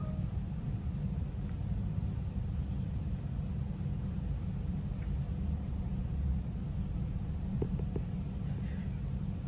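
Steady low rumble inside the passenger saloon of a Greater Anglia Class 745 FLIRT electric train, with a faint steady hum and a few light ticks.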